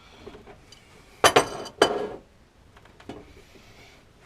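Three sharp clinks in quick succession about a second in, each with a brief ring, then a fainter click near three seconds.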